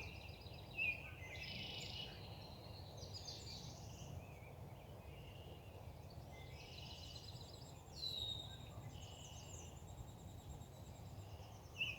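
Faint birdsong: small birds chirping and trilling on and off, with a louder call about eight seconds in, over a steady low outdoor hum.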